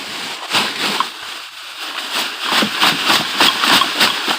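Rummaging through trash in a dumpster: plastic bags rustling and crinkling and items knocking and clattering as they are moved. It comes as a quick, irregular run of crinkles and knocks that grows busier and louder in the second half.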